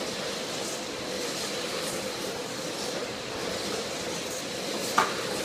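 RC super trucks running laps on a small oval: a steady hum of motors and tyres with faint whines as the trucks pass. A single sharp knock sounds near the end.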